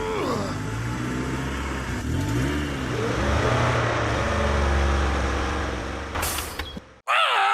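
Heavy vehicle engine running, its revs rising and falling, with a short hiss about six seconds in. It cuts off abruptly near the end.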